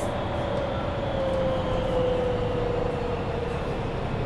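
Mercedes-Benz Citaro C2 Hybrid city bus running, heard from inside: a steady low drone under a drivetrain whine that falls slowly in pitch as the bus slows.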